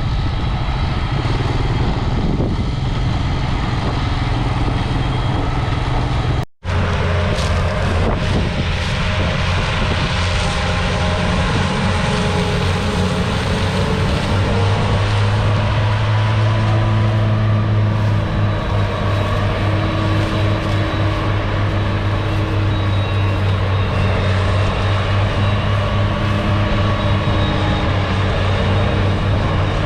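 Heavy diesel farm machinery running steadily, a low engine drone with overtones. The sound breaks off for an instant about six seconds in and resumes.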